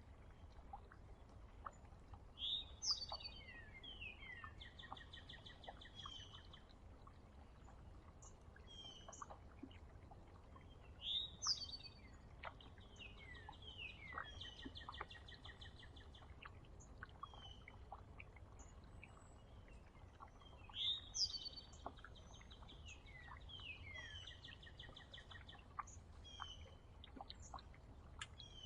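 A songbird singing the same song three times, about nine seconds apart: each song opens with sharp down-sliding notes and runs into buzzy trills. Short chirps from other birds fall between the songs, over a faint low rumble.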